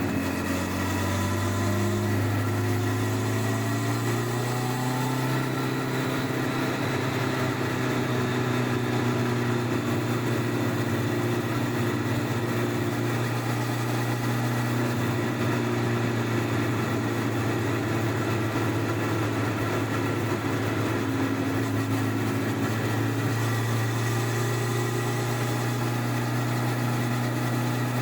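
Honda CBR1100XX Blackbird's 1137 cc inline-four running on the stock exhaust under way. The engine note rises over the first couple of seconds, then holds steady.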